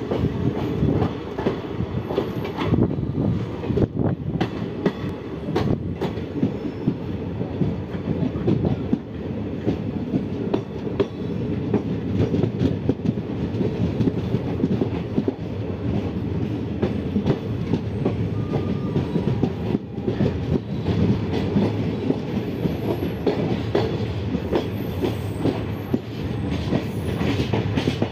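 Indian Railways passenger train, the Sangam Express, running along the track, heard from an open coach doorway: a steady rumble of wheels on rail with frequent clicks from rail joints.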